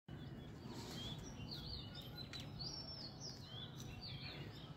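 Small birds chirping: many short, high whistled notes, each rising and falling, repeating throughout over a steady low rumble of background noise.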